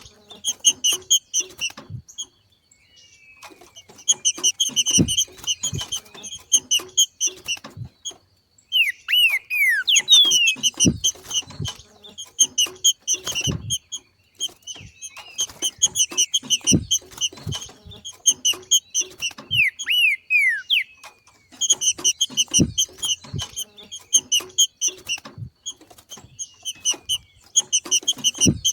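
Trinca-ferro (green-winged saltator) giving its rapid chattering 'macheado' call, the call of a bird in breeding condition. It comes in bouts of a few seconds with short pauses, mixed with descending whistled slurs and a few low thuds.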